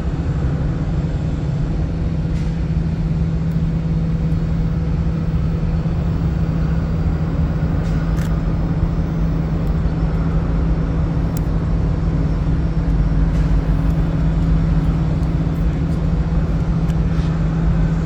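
Engine running steadily with an even low hum, a little louder in the second half.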